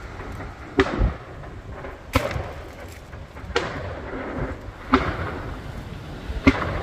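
Fireworks going off, five sharp bangs about every second and a half, over a steady rumble of strong wind on the microphone.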